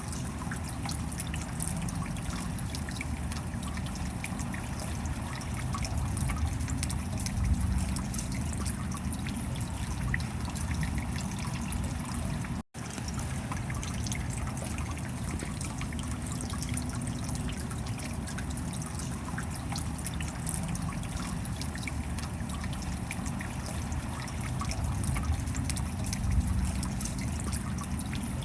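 Steady rain with dense dripping and trickling water, and a low rumble underneath. About halfway through, the sound cuts out completely for a split second and then resumes.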